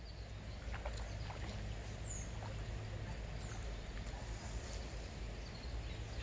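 Outdoor ambience: a steady low rumble and hiss, with two short, high, falling bird calls about two seconds and three and a half seconds in.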